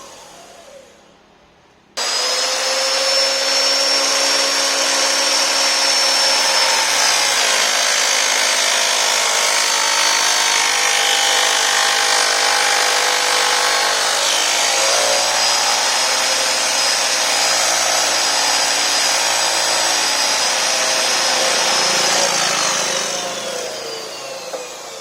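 A high-speed electric motor switches on abruptly, runs with a steady high whine for about twenty seconds with slight changes in load, then is switched off and winds down, its pitch falling.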